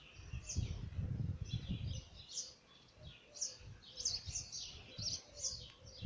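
Small birds chirping: a busy run of short, high, downward-sliding chirps repeated every half second or so, over a low rumbling noise on the microphone that is strongest in the first two seconds.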